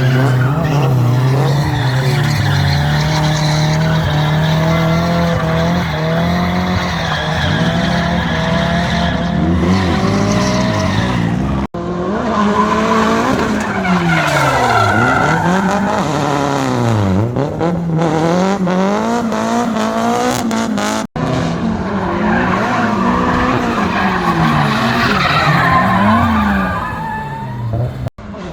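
Drift car engine revving up and down over and over as the tyres slide and screech. The sound breaks off sharply twice partway through and again near the end.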